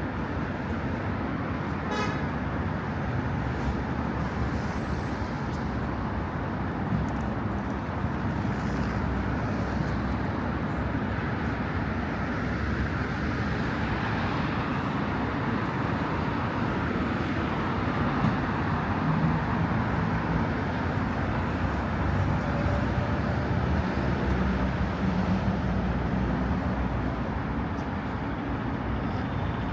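Steady road traffic noise: cars running past on a city road in a continuous low rumble.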